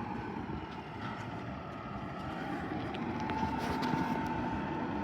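Garbage truck's diesel engine running, a steady rumble with a faint whine that grows a little louder about three seconds in.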